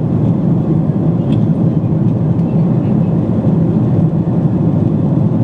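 Steady low drone inside the cabin of a Boeing 777-200 in flight: engine and airflow noise, with a faint tick about a second in.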